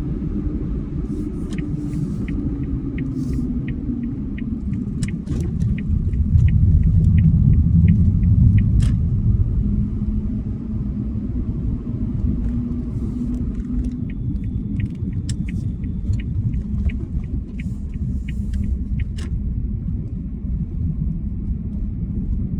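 Steady low road rumble inside a moving car, swelling for a few seconds in the middle. A light, regular ticking, about two a second, comes in twice for a few seconds each time.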